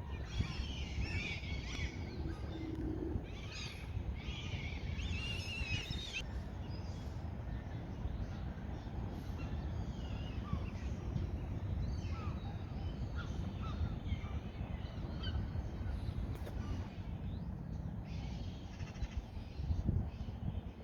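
Birds calling and chirping in repeated bursts, over a steady low rumble.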